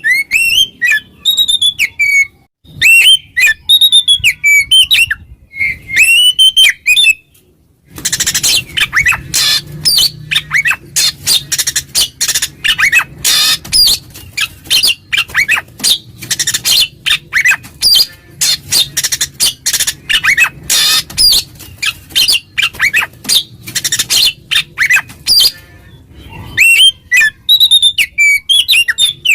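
Oriental magpie-robin (kacer) singing loudly: clear whistled phrases of sliding notes, then from about eight seconds in a long, dense run of rapid, harsher chattering notes over a noisier background, with the clear whistles returning near the end.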